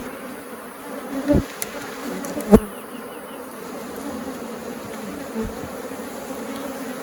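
Honeybees buzzing in a steady low hum from an open hive full of bees, with two short knocks about one and two and a half seconds in.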